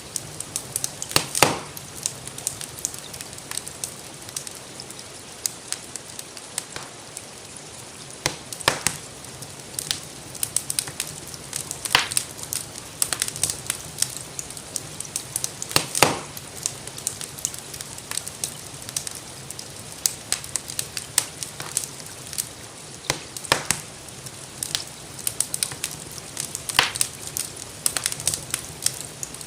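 Wood fire in a fireplace crackling, with frequent small snaps and a louder pop every few seconds, over a steady hiss of gentle rain.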